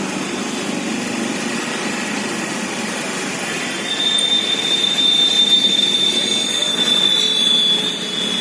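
Rushing floodwater of a river in spate, a steady even roar. About four seconds in a steady high-pitched whine joins it and holds.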